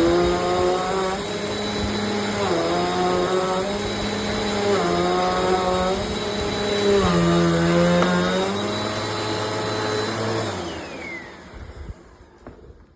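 Amazon Basics upright bagless vacuum cleaner running, its motor pitch dipping and recovering about every two and a half seconds. About eleven seconds in it is switched off and winds down with a falling whine, followed by a click.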